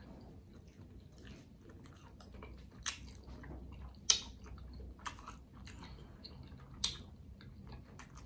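A person chewing a mouthful of soft pretzel-bun cheeseburger with cheese sauce, wet and squishy, broken by several sharp lip smacks, the loudest a little past the middle.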